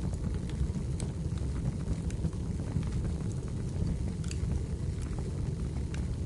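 Wood fire burning in a fireplace: a steady low rumble with scattered sharp crackles and pops from the burning logs, the clearest pop about four seconds in.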